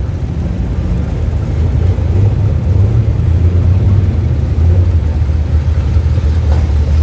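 Hot rod engine rumbling at low speed close by, a steady deep rumble that grows a little louder about two seconds in.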